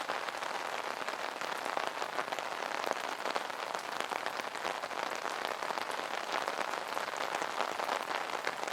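Steady rain pattering on an umbrella canopy, a dense patter of many small drop hits.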